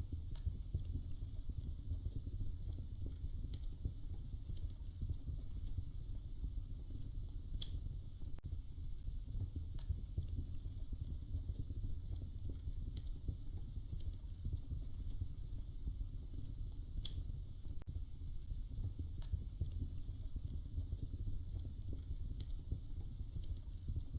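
Wood fire burning in a fireplace: a steady low rumble with sharp crackles and pops every couple of seconds.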